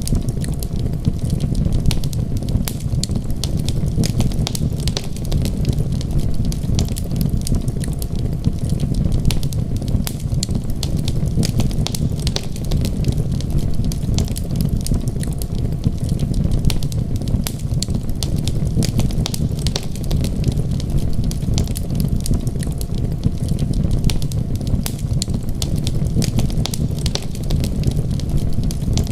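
Wood fire crackling, with many small sharp pops and snaps scattered throughout, over a steady low rumble.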